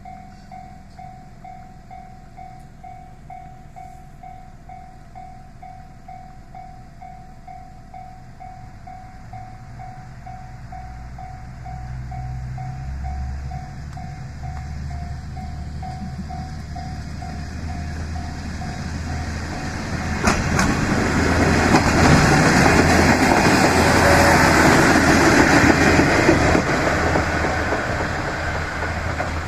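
Level-crossing warning bell dinging rapidly and evenly, about two to three dings a second, while a diesel railcar approaches with its engine sound building. The bell stops about two-thirds through and the railcar passes close with loud wheel and engine noise, fading near the end.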